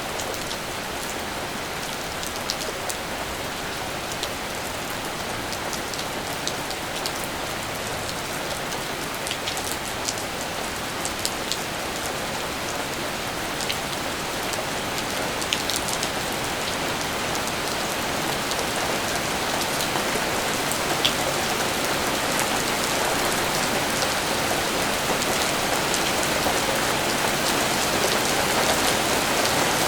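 Steady rainfall, with scattered single drops landing in sharp ticks close by; the rain grows gradually heavier through the second half.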